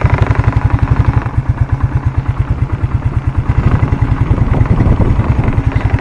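1992 Suzuki four-wheeler's engine idling with a rapid, even beat just after a cold start, warming up.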